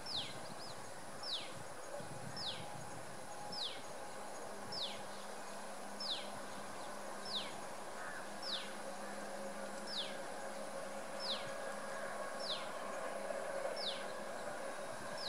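A bird's short downward-sliding call, repeated at a steady pace about once every 1.2 seconds, over a faint steady background hiss.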